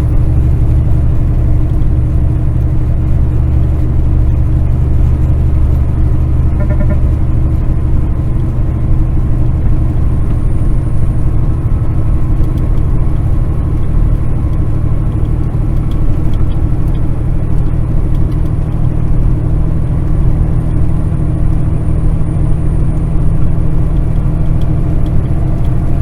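Kenworth semi truck's diesel engine running steadily under way at low speed, a constant low drone. A brief run of short tones sounds about seven seconds in.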